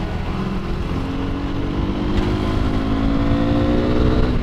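2017 KTM RC390's single-cylinder engine accelerating in gear, its note rising steadily in pitch and growing louder for about three seconds, then breaking off near the end.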